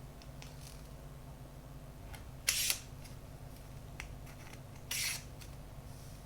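Handling noise from the gimbal and phone being worked by hand: a few light clicks and two short brushing or rustling sounds about two and a half seconds apart, over a low steady hum.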